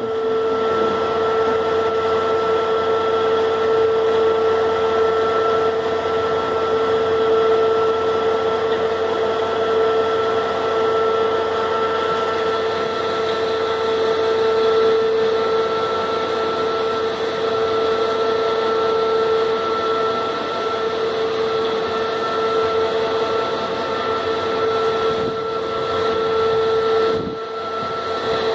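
Steady machinery hum with a constant droning tone and a higher whine, unchanging throughout and dipping briefly near the end.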